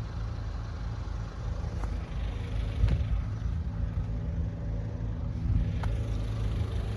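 Steady low rumble of a road vehicle's engine idling, with a few faint clicks.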